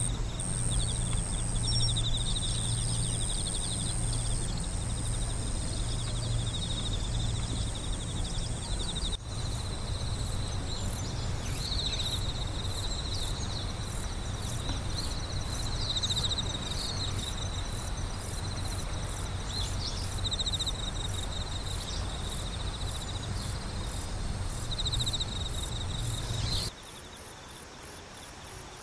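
Several night insects chirring together, crickets among them: steady high trilling with a fast ticking pulse layered on top. A low steady hum underneath stops suddenly near the end, leaving the insects clearer.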